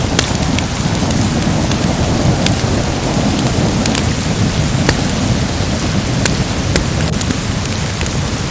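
Steady heavy rain with a low rolling rumble of thunder, dotted with scattered sharp crackles and pops from a wood fire.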